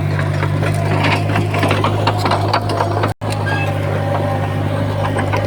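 Komatsu D51PX bulldozer's diesel engine running steadily under load, with frequent clanks and rattles from the tracks and the pushed stone. The sound cuts out for an instant about three seconds in.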